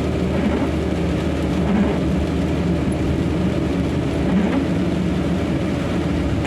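Truck's diesel engine running steadily at low speed, heard from inside the cab.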